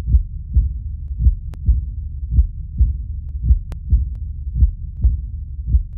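A heartbeat sound effect: low, even thumps about twice a second, used to stand for held breath and suspense.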